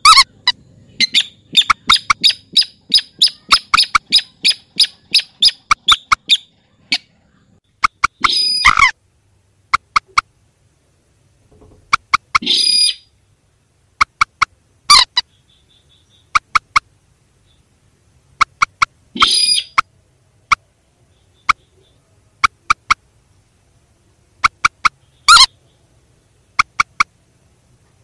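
Recorded calls of rails (mandar and sintar), played as a bird-trapping lure. A fast run of short, evenly repeated notes lasts for about the first six seconds. Then come scattered short notes in pairs and threes, broken by five louder harsh calls.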